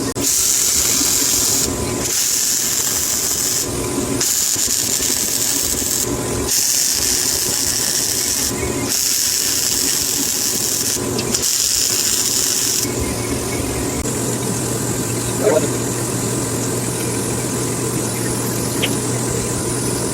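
A power tool cutting a strip of Hardox steel plate: about six hissing cuts of one to two seconds each with short pauses, stopping about 13 s in. A steady low hum carries on after the cutting stops.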